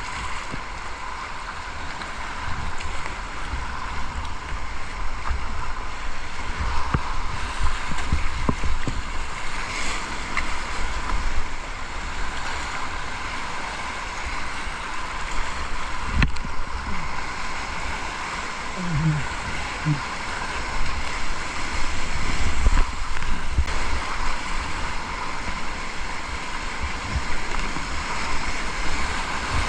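River water rushing and splashing around a kayak on a fast-flowing river, with uneven low rumble from wind on the microphone.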